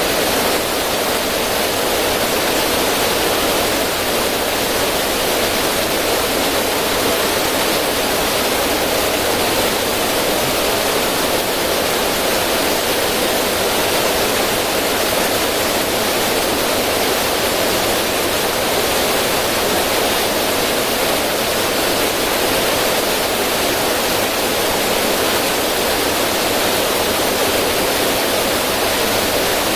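River current running over rocks and splashing down a small cascade: a steady, even rush of water.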